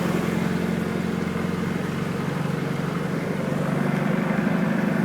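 Vehicle engine running steadily, heard from inside the cab while wading through deep flood water.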